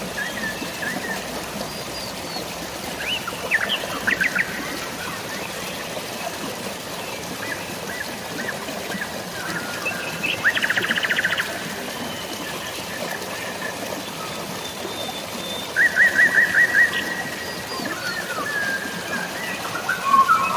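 Birds calling over a steady hiss of rain and flowing water: three bursts of rapid trilled notes, a few seconds in, about ten seconds in and about sixteen seconds in, with scattered short chirps between.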